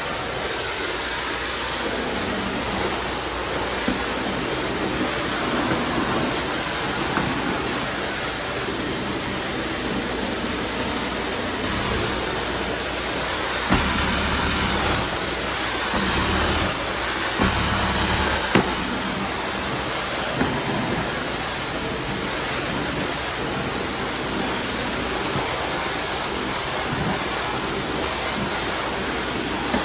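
Tile-cleaning extraction equipment running steadily: a continuous hissing rush of vacuum and spray, with a few sharp clicks or knocks.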